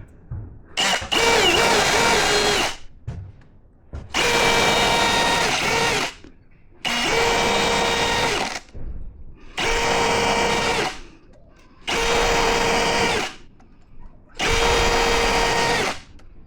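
Electric power drill running in six short bursts of about one and a half to two seconds each, with brief pauses between them and a steady motor whine.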